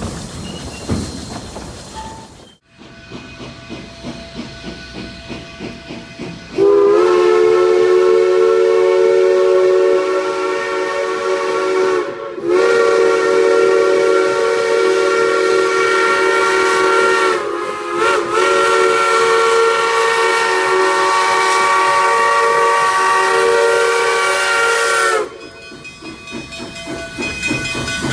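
Narrow-gauge steam locomotive's chime whistle blowing a long, loud chord, broken twice by brief dips, over hissing steam. Before and after the whistle, rhythmic exhaust chuffing.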